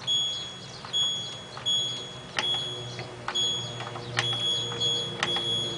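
Control panel of an LG F1222TD washing machine beeping as the spin-speed button is pressed repeatedly: a short high beep about once a second, with sharp button clicks among them.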